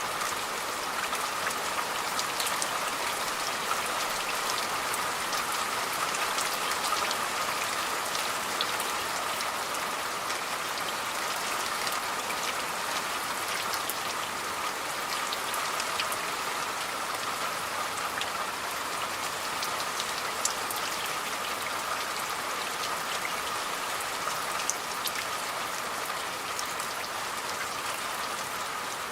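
Steady rainfall, with many individual drops ticking sharply against a constant hiss.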